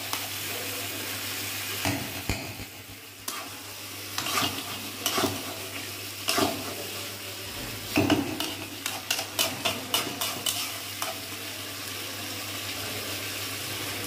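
Chicken masala sizzling in a kadai as a spatula stirs and scrapes it against the pan, with a quick run of scrapes and knocks between about 8 and 11 seconds in.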